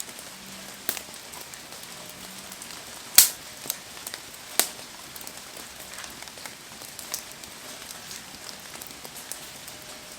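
Wood fire burning in the rain: a steady hiss of rainfall with a few sharp pops from the fire, the loudest about three seconds in.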